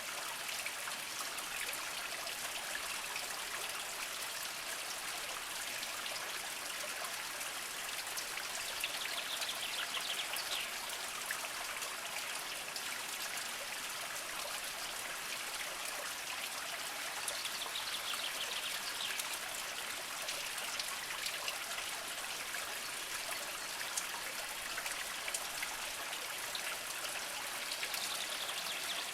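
A small spring trickling slowly over mossy rocks: a steady light splashing flow, flecked with small drips and plinks.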